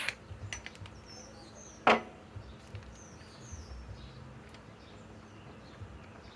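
A few light clicks and one sharp knock about two seconds in, as of metal parts being handled and set in place, with birds chirping in the background.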